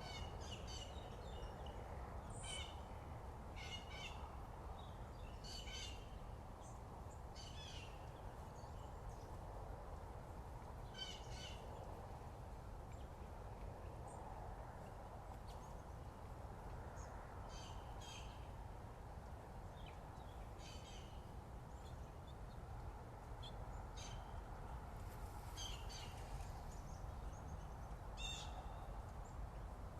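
Wild birds calling and singing in short high phrases every few seconds, over a steady background hiss.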